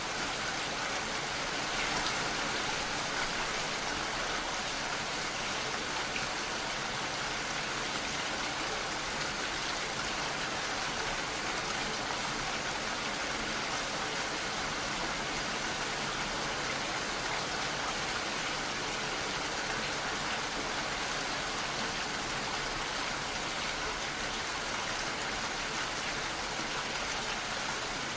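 Steady rain falling, an even hiss with no let-up or change in strength.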